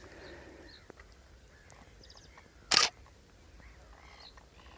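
Single-lens reflex camera shutter firing once, a short sharp clack nearly three seconds in, over faint bird calls.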